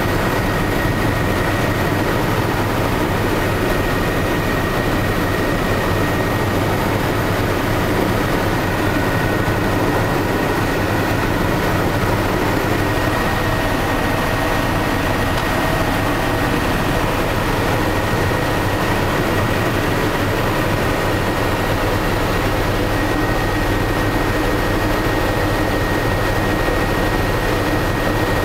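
Helicopter in flight, heard from the cabin: a steady, loud engine and rotor drone with a thin, steady high whine.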